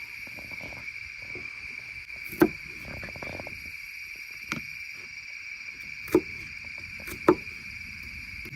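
Steady chorus of crickets chirring on a high, unbroken note, with a few sharp clicks scattered through it.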